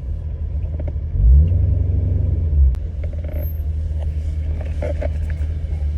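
Car engine idling with a steady low rumble, heard from inside the car. About a second in it briefly swells louder with a short rise, then settles back after about a second and a half.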